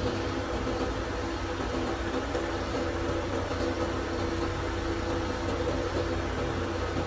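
A machine running steadily with an even hum.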